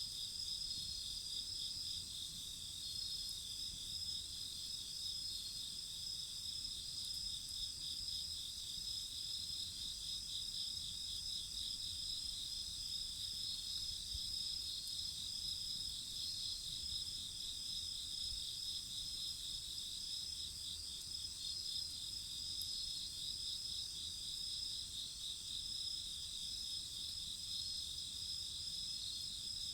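Chorus of singing insects such as crickets: several steady high-pitched trills layered together, one of them pulsing rapidly, holding at an even level throughout.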